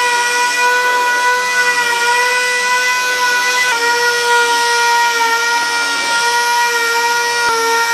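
6-inch dual-action sander with a 3/32-inch orbit running at a steady high whine while dry sanding a painted tabletop with 2000-grit paper to expose surface defects. Its pitch drops slightly about three and a half seconds in and again near the end.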